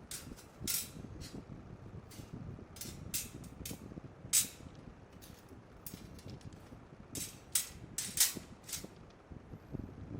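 Wood fire in a fire pit crackling, with irregular sharp pops over a low rumble; the loudest pops come a little past four seconds in and about eight seconds in.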